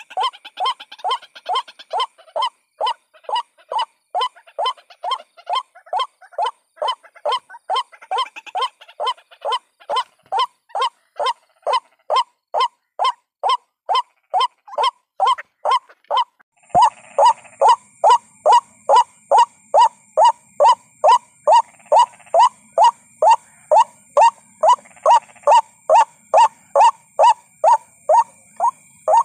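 White-breasted waterhen's call, played as a trapping lure: an unbroken series of short falling notes, about two and a half a second. A little over halfway through, the recording jumps to a louder take with a steady high hum behind the calls.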